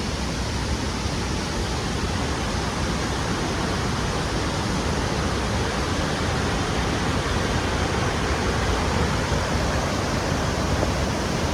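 Steady rush of water from the wide Vazhachal waterfall.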